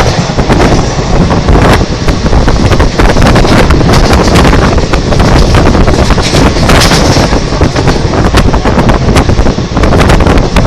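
Express train coaches rushing past close at speed: a loud continuous roar, with repeated sharp knocks from the wheels on the rails and wind buffeting the microphone.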